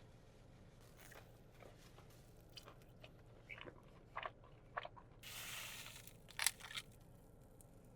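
Close-up biting and chewing of crispy fried chicken: a run of short crunches from about two and a half seconds in, a longer crackling stretch a little past five seconds, and the loudest crunch at about six and a half seconds.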